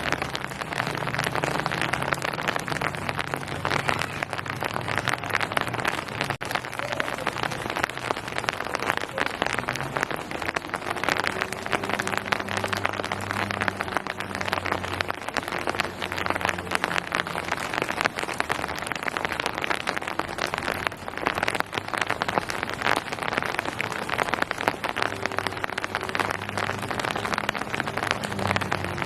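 Steady rain falling on hard surfaces: a dense, even patter of drops with a faint low hum underneath.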